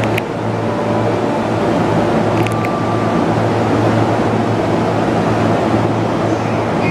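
A Chuo-Sobu Line electric commuter train standing at the platform with its doors open, giving off a steady hum, with two brief clicks.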